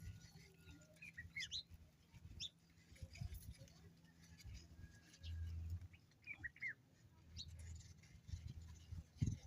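Faint garden birds giving a few short chirps, over a low rumble.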